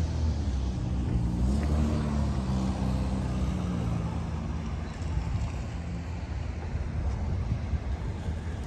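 A vehicle engine running with a low rumble, its pitch rising about a second and a half in and then holding steady.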